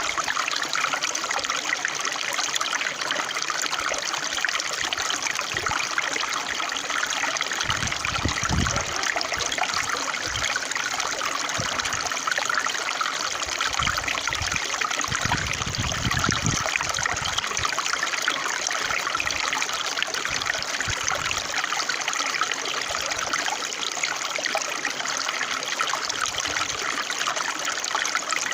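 Water of a small stream trickling and running steadily, with brief low rumbles about eight and fifteen seconds in.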